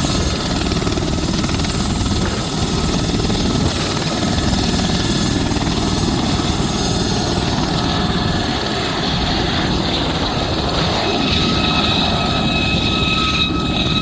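Aérospatiale SA342M Gazelle helicopter flying, its turboshaft engine and rotor running loud and steady. A high turbine whine comes up more strongly in the last few seconds.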